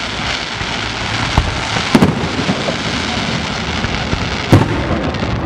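Aerial fireworks going off: a dense, continuous crackling, with three sharp bangs, the loudest about four and a half seconds in.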